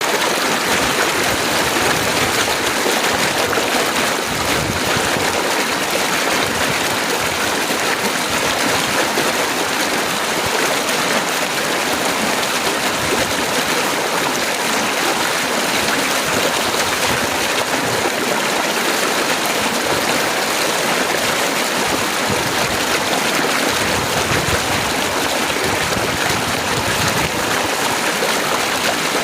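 Heavy rain falling fast: a steady, even hiss with no let-up.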